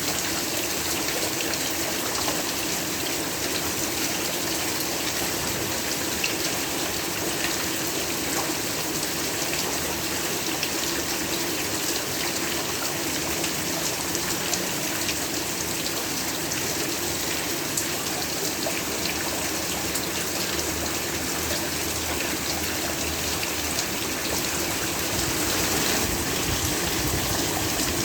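Heavy rain falling steadily: a dense, even hiss with scattered ticks of individual drops, growing a little louder near the end.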